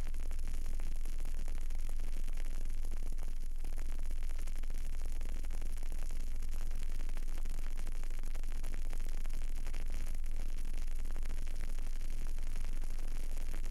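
Burning candle recorded close up: a steady hiss with fine, continuous crackling over a low hum.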